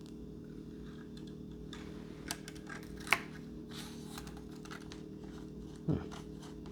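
Scattered small clicks and taps of hands handling small plastic RC-plane parts during assembly, sharpest about three seconds in, over a steady low hum.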